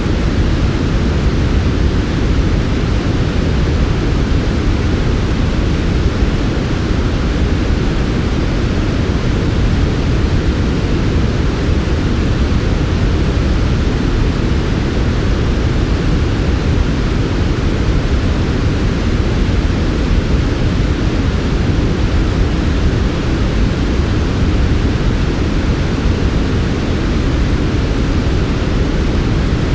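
Steady synthetic sleep noise, sold as smooth white noise but weighted toward the low end: a deep, even hiss with little treble that never changes.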